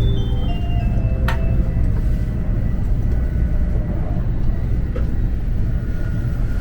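Steady low rumble of a JR West Tokaido Shinkansen car running, heard from inside the cabin. The last notes of the onboard announcement chime fade out at the start, and a sharp click comes about a second in.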